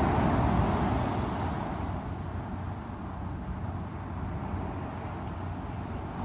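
Sea waves breaking on the shore: a wave crashes at the start, then its wash settles into a steady rushing surf.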